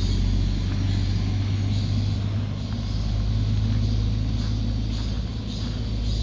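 Steady low rumble, with soft footsteps on a walking path about every three-quarters of a second.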